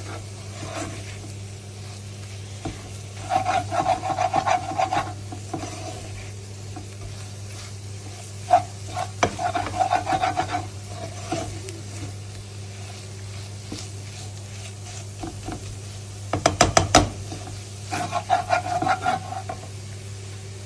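A spoon stirring and scraping onion-tomato masala with powdered spices in a pan over a low sizzle, in several spells of strokes, with the spices being roasted. A quick run of sharp taps comes about three-quarters of the way through.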